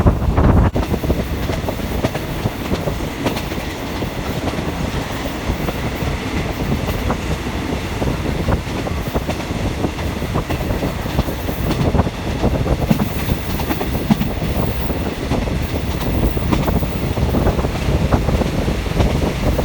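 Passenger train carriage running along the track: a steady rumble with the wheels clicking over the rail joints, heard from on board.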